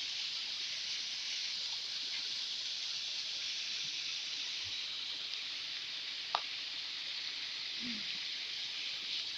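Steady rushing hiss of a rain-swollen stream running fast after heavy rain, with one small sharp tick about six seconds in.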